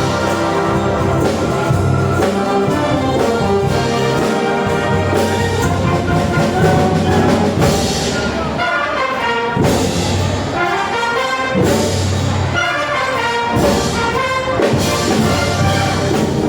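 Brass band playing a full-ensemble arrangement: trumpets and trombones carrying sustained melody and chords over a steady bass line.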